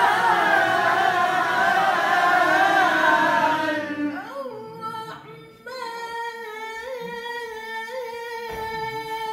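Several voices chant a melodic recitation together in unison, with wavering ornamented lines. About four seconds in the group thins out, and a single voice holds one long, steady note with small melodic turns.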